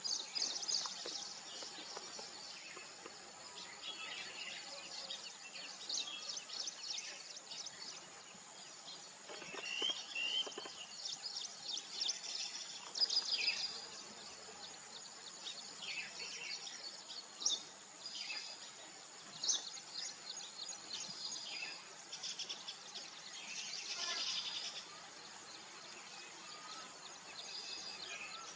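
Weaver birds chattering at a nesting colony: many overlapping short, high chirps and buzzy rattles without pause, over a thin steady high tone.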